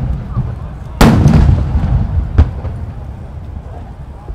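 Large 12-inch (shakudama) aerial firework shells bursting: one heavy boom about a second in that echoes on, with a sharper crack at about two and a half seconds.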